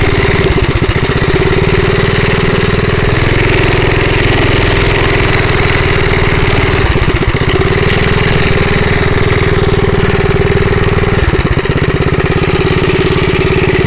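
Rupp Bonanza minibike's small gas engine running steadily under way, its note holding fairly even, with a few brief dips.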